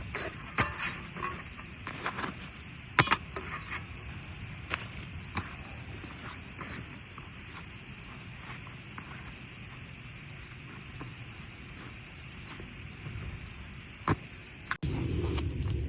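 Autumn insects, crickets, chirring steadily in a high, even drone, with a few sharp knocks in the first few seconds. Near the end the sound cuts suddenly to a low rumble.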